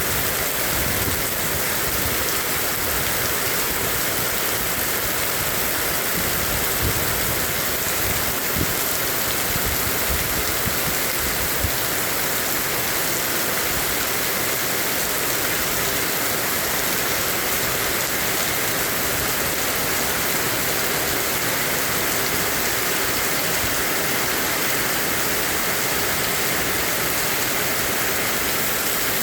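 Heavy rain falling in a steady downpour, an even rushing hiss that holds level throughout, with a few faint low thumps in the middle.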